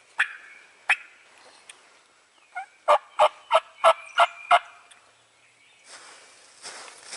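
Turkey calling: a couple of single sharp notes, then a run of about six loud, clipped yelps at roughly three a second. Soft rustling in dry leaves begins near the end.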